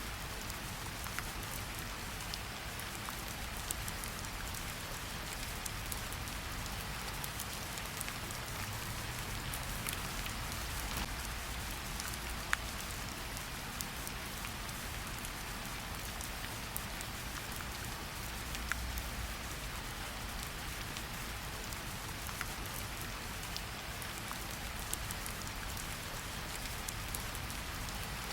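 Steady rain falling in a forest: an even hiss of rainfall with many small, close drop ticks scattered through it, one sharper drop about twelve seconds in.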